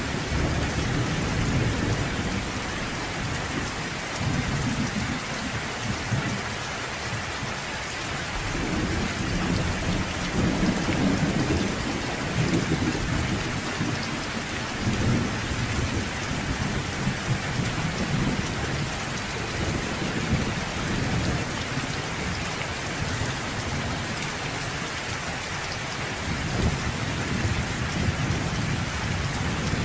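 Steady rain falling, with low rumbles of thunder swelling and fading several times underneath.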